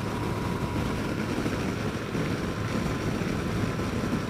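Yamaha FJR1300 inline-four motorcycle under way at a steady pace: an even engine hum mixed with wind rush, picked up by a helmet microphone.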